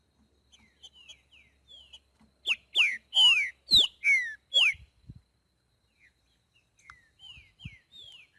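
Trinca-ferro boiadeiro, a green-winged saltator, singing clear, downslurred whistled notes. A loud, rapid phrase of about six falling notes comes in the middle, with softer single notes before and after it.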